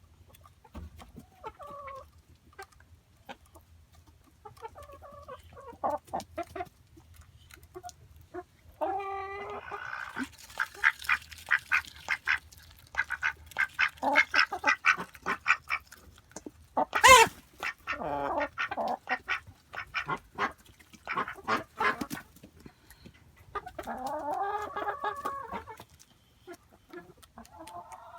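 Chickens clucking and calling in short, rapid bursts, with one loud squawk about halfway through.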